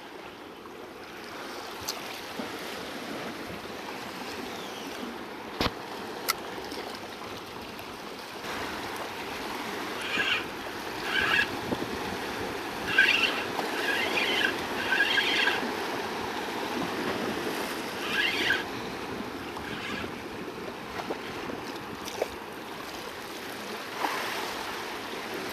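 Sea water washing steadily against the rocks, with two sharp clicks about six seconds in and several short, high-pitched bursts through the middle stretch.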